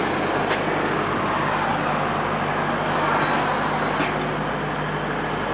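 Steady vehicle noise: an engine running under an even road or traffic rumble, with a couple of faint clicks.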